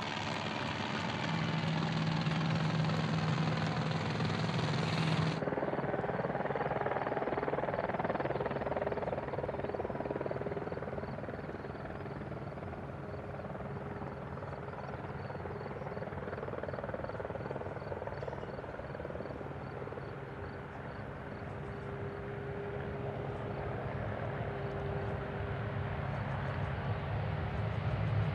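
Aircraft engine noise, a steady rush with faint steady tones under it. About five seconds in the sound changes abruptly, as at a cut, and then carries on steadily.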